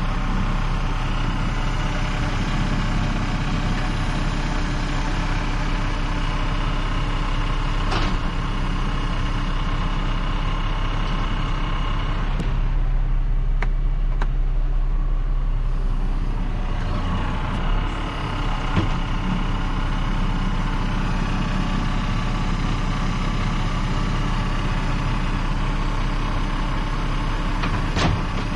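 Tractor engine running steadily, its tone thinning for a few seconds about halfway through, with an odd click.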